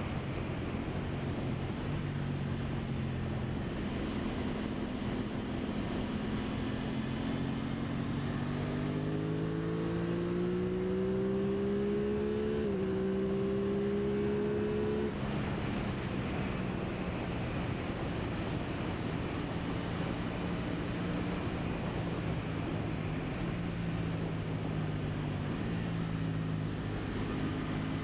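Aprilia Tuono 660 parallel-twin engine under way: revs climb steadily for several seconds, a quick upshift breaks the rise, then the throttle closes abruptly and the bike settles into steady cruising. Wind rush over the rider's microphone runs beneath it.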